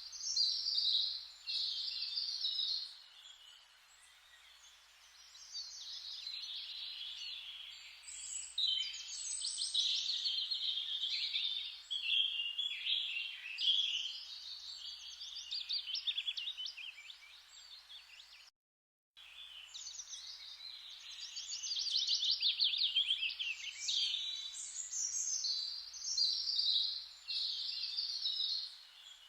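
Songbirds chirping and singing over a soft steady hiss of forest background. The sound cuts out completely for about half a second about two-thirds of the way through, then the birdsong resumes.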